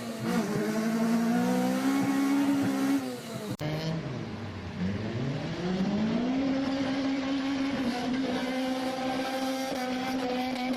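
Honda K20 four-cylinder engine revved high and held there. After a sudden cut, the revs drop away and climb back up to hold high again.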